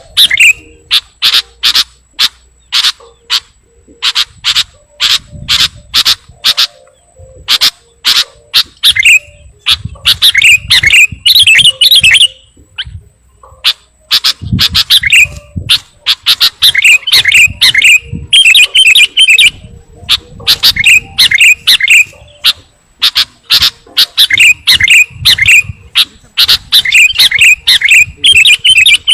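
Sooty-headed bulbul (kutilang) lure call: loud runs of sharp, rapid chirps broken by bubbly warbling phrases, with a brief pause about halfway through.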